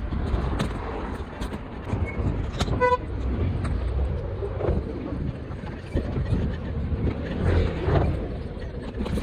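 Steady low rumble of wind and road noise on a moving bicycle in city traffic, with one short, sharp horn beep about three seconds in.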